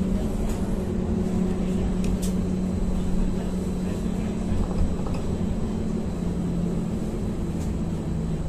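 Ankeng Light Rail tram running between stations: a steady low rumble with a droning electric hum and a few faint clicks.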